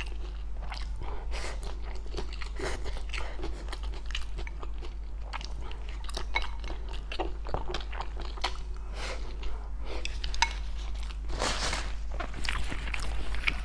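Close-miked chewing and crunching of food, with a continuous run of small crisp crunches over a steady low hum.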